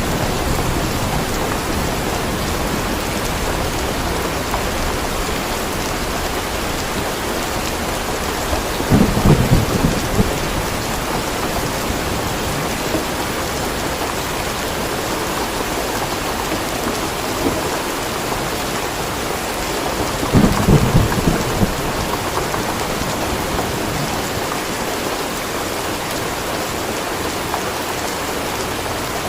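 Steady rain falling, with two short low rumbles of thunder, about a third and two-thirds of the way through.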